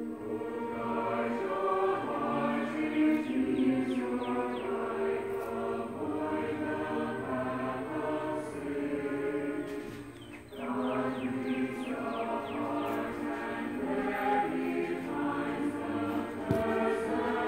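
Music: a choir singing long held chords, dropping away briefly about ten seconds in before swelling back.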